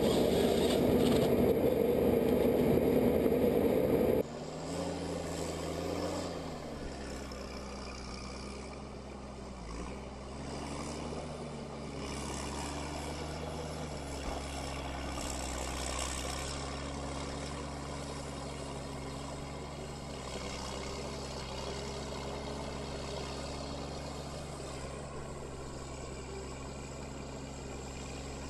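A loud, noisy machine sound stops abruptly about four seconds in. After it, an engine runs steadily at a low, even speed, with brief dips in pitch about five and ten seconds in.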